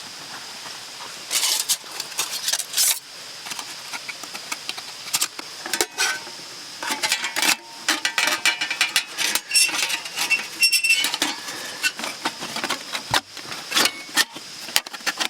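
Irregular clinks and knocks of camp cookware and utensils being handled, over a steady faint hiss.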